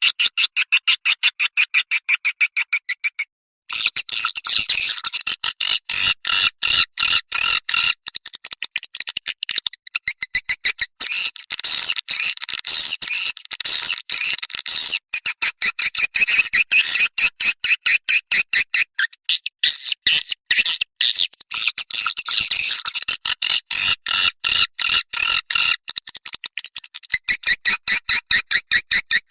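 Swiftlet lure call: a recorded stream of edible-nest swiftlet chirps, many short chirps a second, repeating steadily, with a brief break a few seconds in.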